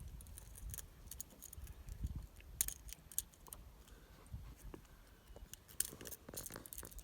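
Faint, scattered small metallic clicks and light rattling of fishing tackle being handled while working a treble hook free from a northern pike's gills, in a few short clusters.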